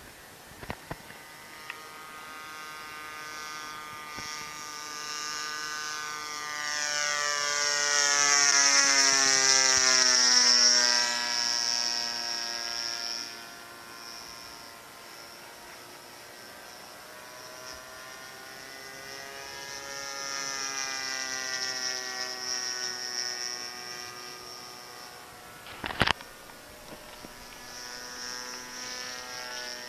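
Model airplane's 20cc gas engine running in flight and passing overhead twice, growing loud and then fading with its pitch sliding down as it goes by, the louder pass about a third of the way in. The engine is running a little rich. There is a single sharp click late on.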